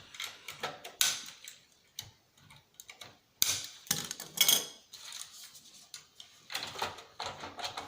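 Scissors snipping, with a handful of sharp clicks and crackles at irregular intervals.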